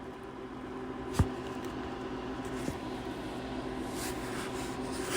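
Steady low hum of background room or equipment noise, with one sharp click about a second in and a fainter one later.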